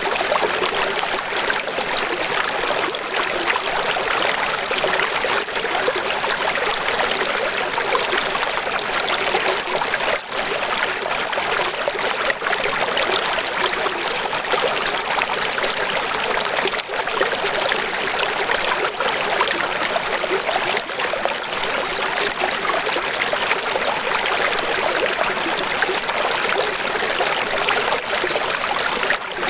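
Running water, an even, steady rush with little deep rumble.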